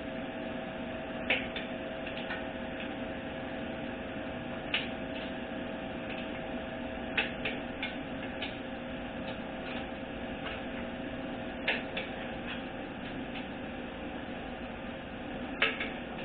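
Click-type torque wrench clicking sharply several times at irregular intervals as bolts on a 4L60E transmission reach torque, over a steady background hum.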